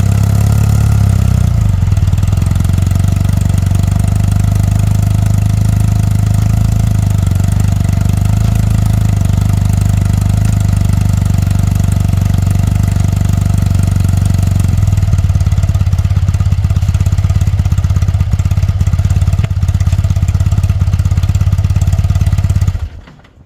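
BMW R100RS air-cooled boxer twin idling steadily, run to warm it up, likely so the gearbox oil drains warm. It is switched off near the end and the sound drops away quickly.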